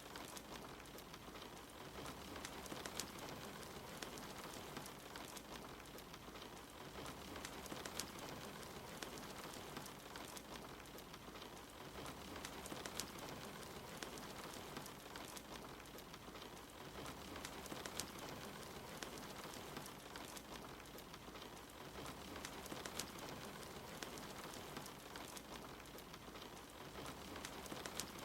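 Steady hiss of rain falling outside, mixed with a fireplace's log fire crackling, with sharp pops scattered throughout. A low rumble swells and fades about every five seconds underneath.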